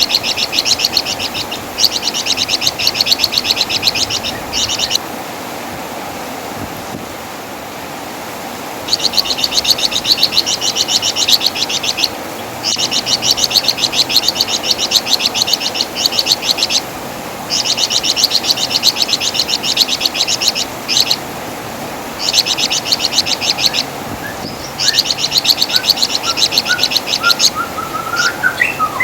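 Flamboyan (wergan jawa) songbird singing: bursts of very fast, high trilling, each lasting one to a few seconds, broken by short pauses. A short run of lower notes rises near the end.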